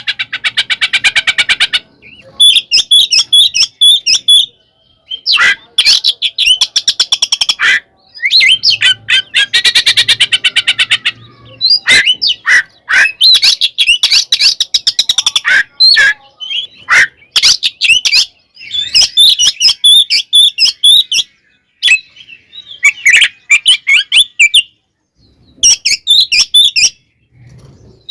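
Oriental magpie-robin (kacer) singing loudly in full, aggressive song, mixing whistled phrases with fast rattling chatter, in bursts of a second or few broken by short pauses.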